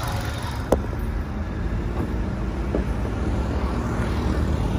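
Hyundai i20's 1.4-litre petrol engine idling with a steady low rumble. One sharp click comes about a second in.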